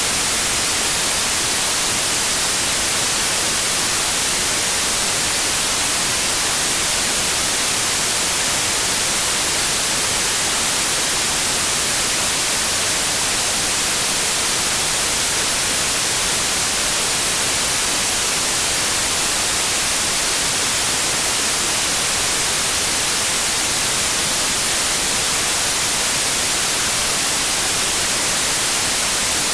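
Steady electronic white noise: an even, unchanging hiss, strongest in the high end.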